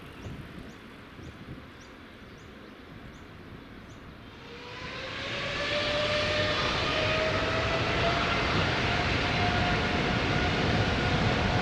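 Boeing 777-300ER's GE90 jet engines spooling up to takeoff power: a rising whine swells in about halfway through, then holds loud and steady with a high engine whine over a broad roar. Before it, faint high chirps repeat about twice a second.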